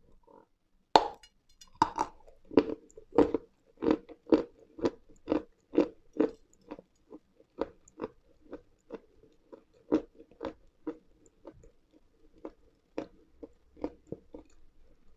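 A person biting into a dry, crunchy mineral lump with one sharp snap, then chewing it in steady crisp crunches, about two a second, that grow fainter as it breaks down.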